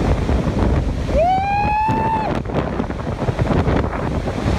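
Strong wind from a tornado buffeting the microphone with a steady rumble. About a second in, a person gives one long shout that rises and then holds for about a second.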